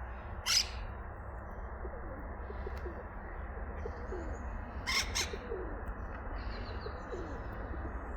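Birds calling: low falling coos repeat throughout, with a sharp short squawk about half a second in and two more around the five-second mark, and a few faint high chirps.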